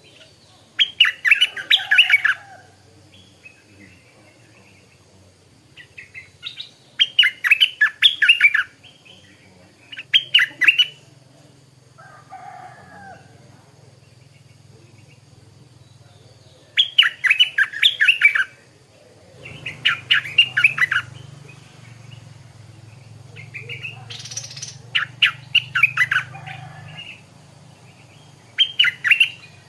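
Stripe-throated bulbul singing in short bubbling phrases of quick chirpy notes, about seven phrases each lasting one to two seconds with pauses between them. A faint low hum runs underneath for parts of the time.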